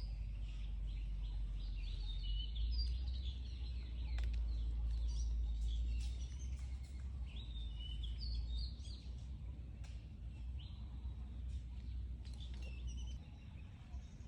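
Outdoor ambience of birds chirping, many short high calls scattered throughout, over a steady low rumble.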